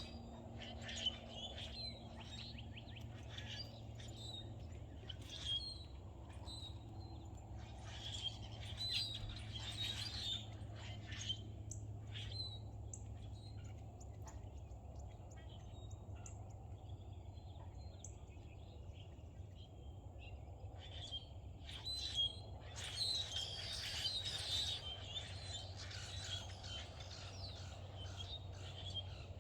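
Wild birds chirping and calling, several at once in a dense, overlapping chorus that is busiest near the end, over a steady low hum.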